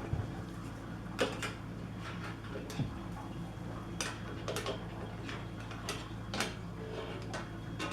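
Scattered sharp metallic clicks and knocks, about a dozen, as steel parts and tools are handled, over a steady low hum.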